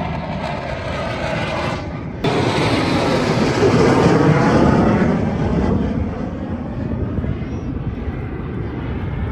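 Aircraft flying past at an air show. The engine noise jumps abruptly about two seconds in, peaks around four seconds with a sweeping, phasing sound as the plane passes, then fades to a steadier drone.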